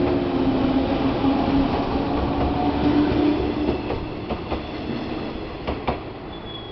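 JR 117 series electric train pulling out and passing close by: a steady motor and gear hum with the rumble of the wheels. It fades after about three and a half seconds as the last car goes by, with a few sharp wheel clacks over the rail joints between four and six seconds in.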